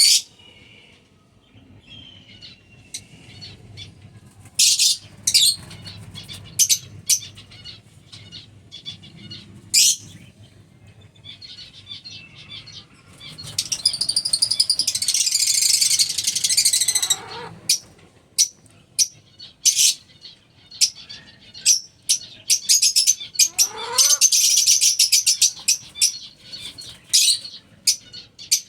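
Lovebirds calling with sharp, high chirps throughout. Two longer stretches of dense, continuous high chatter come about halfway through and again near the end.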